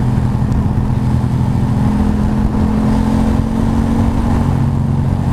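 Ducati motorcycle engine running at a steady cruising speed, holding one even pitch, with steady wind and road noise.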